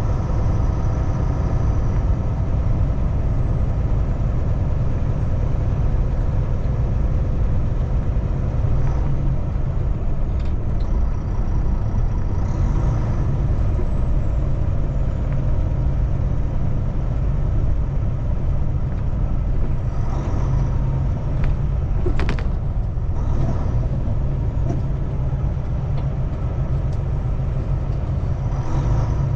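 Kenworth T680 semi-truck's diesel engine running steadily while the truck moves slowly, a constant low drone. A single brief sharp click or hiss about two-thirds of the way through.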